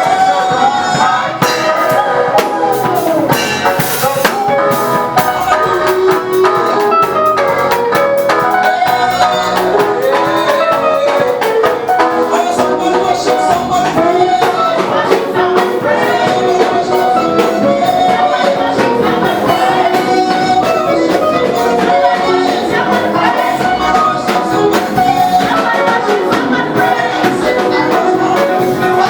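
Live praise-and-worship music: a band with a drum kit playing an upbeat groove, with singing over it.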